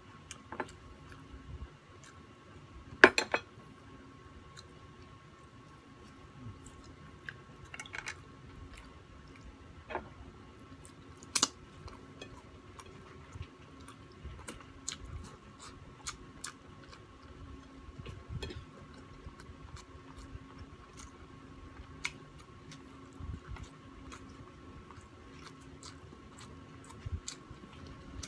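Close-up chewing and mouth sounds of a person eating with their hands, with scattered short sharp clicks and taps, the loudest about three seconds in, over a faint steady hum.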